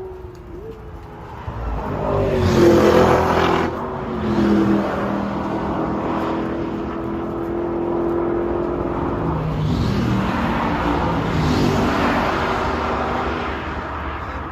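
Corvette C8 Z06's 5.5-litre flat-plane-crank V8 exhaust accelerating hard. The engine note climbs and drops back several times, loudest about two to three seconds in, and climbs again around ten seconds in.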